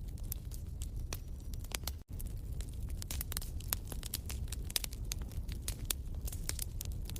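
Wood fire in a fireplace crackling and popping: irregular sharp snaps over a steady low rumble of the flames. There is a very brief break in the sound about two seconds in.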